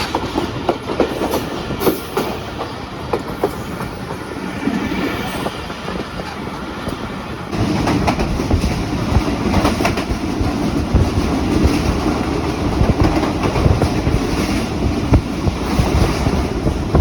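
Train running along the track with wheels clacking over rail joints; the sound jumps suddenly louder about halfway through and stays there.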